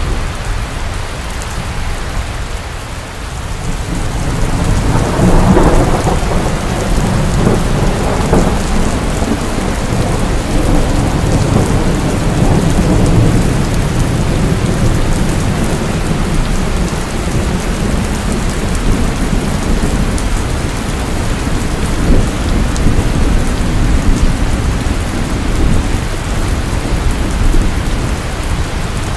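Steady heavy rain with thunder rumbling low underneath, the rumble swelling about five seconds in and rolling on.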